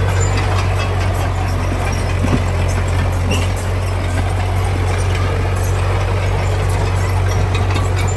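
Heavy diesel engine of earthmoving machinery running steadily at a low, even pitch, with a few faint clicks and rattles over it.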